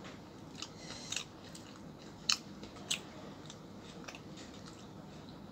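Close-up eating sounds: chewing of roti and arbi leaf saag eaten by hand, with a few short, sharp clicks.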